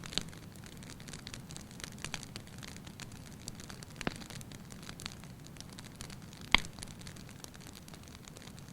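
Wood fire burning in a fireplace: steady low flame noise with frequent small crackles and a few sharper pops, the loudest about six and a half seconds in.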